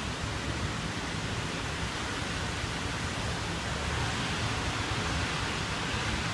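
Steady rain falling, an even hiss without distinct drops.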